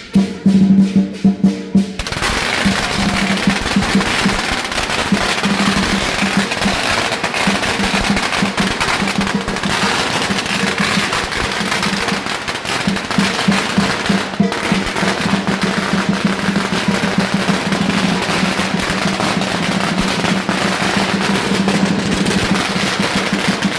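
Lion dance drum beating steadily, then about two seconds in a string of firecrackers starts going off in a dense, continuous crackle while the drum keeps beating underneath.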